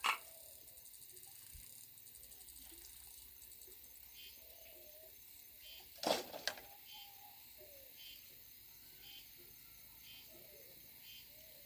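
Insects chirping, short chirps repeating about once a second over a steady background hum of insects. A sharp double knock comes about six seconds in.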